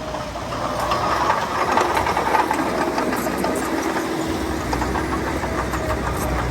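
Heavy diesel earthmoving machinery running with a knocking engine note, louder and noisier for a couple of seconds about one second in.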